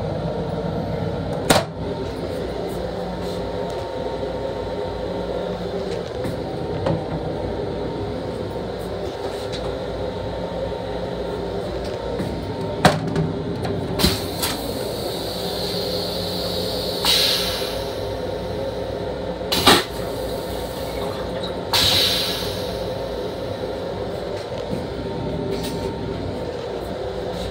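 Steady hum of an M7 commuter railcar heard inside its restroom, with a few sharp knocks and two short hisses.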